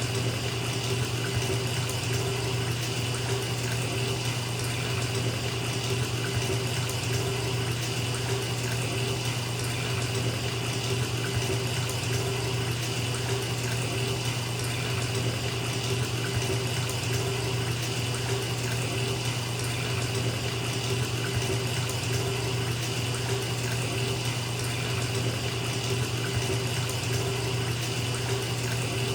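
Bathtub tap running steadily, water pouring into a filling tub with an even rush and a low rumble underneath.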